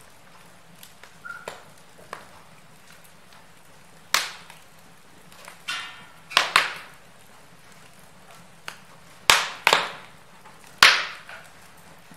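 Wood fire crackling in a fireplace over a faint steady hiss, with small ticks early on giving way to several loud, sharp pops in the second half.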